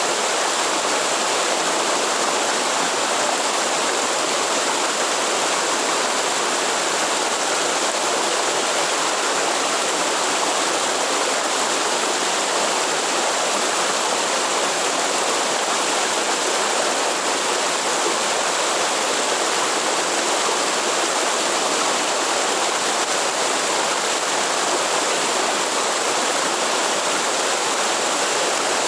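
Steady rush of a waterfall or forest stream, unchanging throughout.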